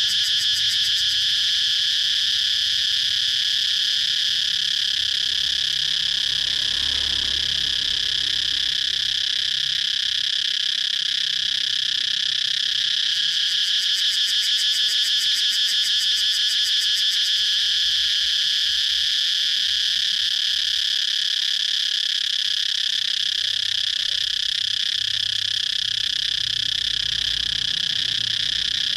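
Cicadas singing: a loud, continuous high-pitched buzz with a fast pulsing flutter that strengthens near the start and again about halfway through.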